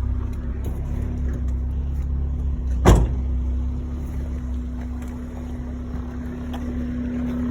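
Honda S2000's swapped-in 2.2-litre four-cylinder engine idling steadily, with a single sharp clunk about three seconds in as the hood is released.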